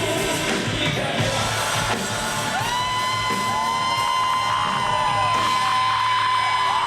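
Live band playing an instrumental passage of a pop song; about two and a half seconds in, a high note slides up and is held to the end.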